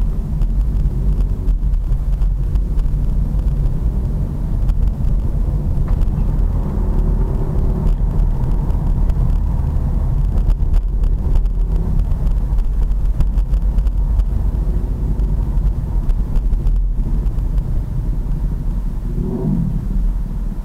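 Pit bike engine running while the bike is ridden, a steady loud sound with most of its weight low down. The engine note rises near the end.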